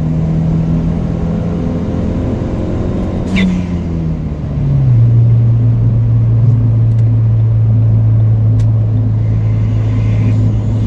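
Ford Fiesta ST's turbocharged engine with an aftermarket 2J Racing intake, heard from inside the cabin as a steady drone; a few seconds in the revs fall and it settles into a lower, louder steady drone at freeway cruise in sixth gear.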